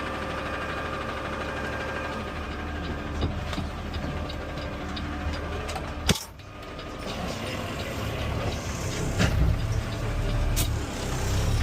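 Peterbilt 520 CNG automated side-loader garbage truck's engine running, heard from the cab, with a low drone that grows louder over the last few seconds. A sharp clack about six seconds in and a couple of lighter knocks later.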